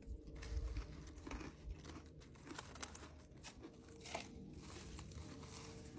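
Chewing and crunching on a dry MRE vegetable cracker, with the crinkle of its paper packet being handled: a quiet run of irregular small crackles and clicks.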